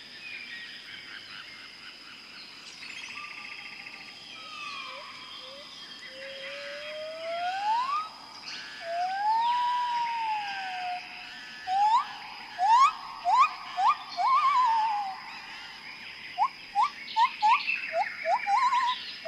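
Wild animal calls: clear whistled notes that rise in pitch. A few long slow glides come first, then from about halfway a run of short quick upslurs, several a second at times. Under them runs a steady background chorus with a constant high tone.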